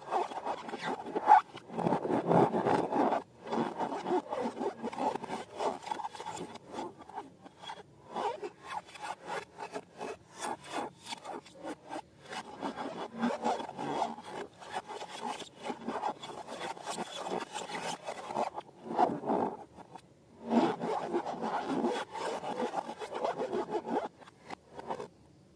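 Slime being worked by hand, a dense run of quick squishing, rubbing and crackling strokes, with short pauses and a stop just before the end.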